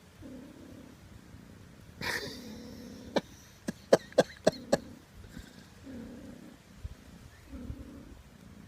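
Cat purring in slow, even cycles while kneading. About two seconds in there is a short rustle, and soon after a quick run of about six sharp clicks.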